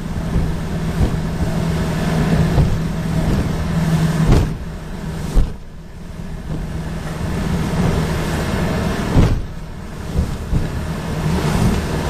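Outboard motor running steadily while an aluminum V-bottom boat's hull bangs through waves, with several sharp knocks as it hits them. The loudness dips briefly twice.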